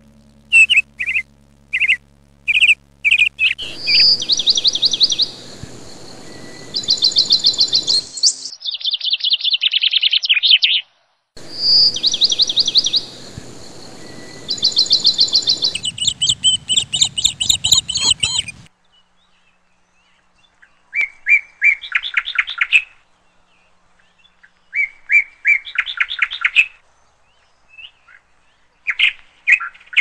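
Small songbirds chirping and singing in repeated, fast-trilled phrases, over a steady hiss until a little past halfway, then in short separate phrases a few seconds apart.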